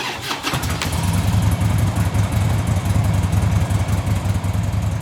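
Motorcycle engine running steadily at a fast, even beat, with a few sharp clicks in the first second.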